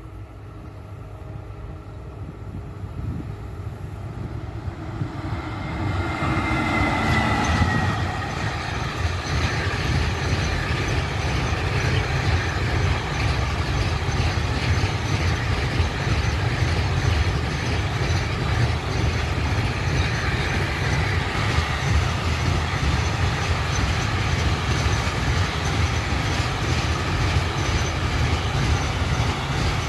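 Container freight train hauled by a Stadler Eurodual class 159 locomotive approaching and passing. The sound builds over the first six seconds, with a brief falling whine as the locomotive goes by. Then comes a steady rumble of the container wagons' wheels on the rails, with a little wheel squeal.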